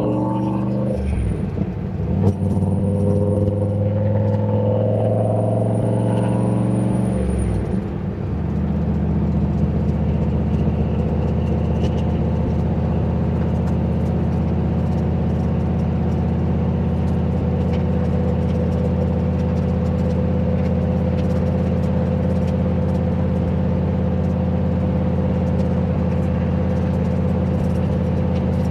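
Turbocharged 351 Windsor V8 in a Fox-body Mustang running: the revs swing down and back up over the first eight seconds, then the engine holds a steady speed for the rest.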